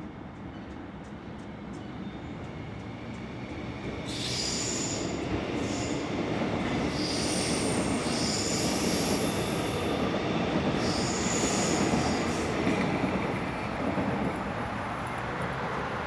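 Electric suburban train coming into the station, its running noise building up, then wheels squealing high-pitched on and off from about four seconds in while it is loudest, easing a little near the end.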